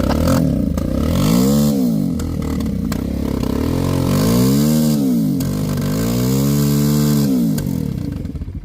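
Small single-cylinder pit bike engine running and being revved up and back down three times.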